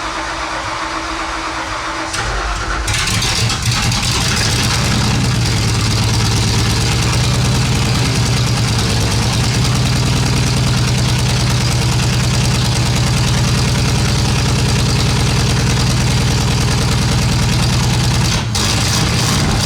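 Ford 302 small-block V8, freshly swapped in and not yet turbocharged, just after start-up: it picks up about two to three seconds in and settles into a steady, even idle, with a brief dip near the end.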